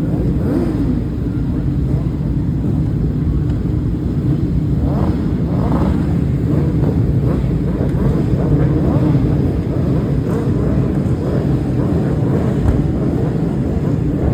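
Racing superbike engines, a steady heavy rumble with several short rising whines between about five and seven seconds in as engines rev up.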